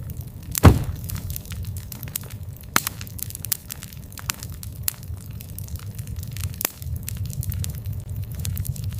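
Wood campfire crackling, with a steady low rumble and many sharp pops scattered irregularly. The loudest pop comes under a second in.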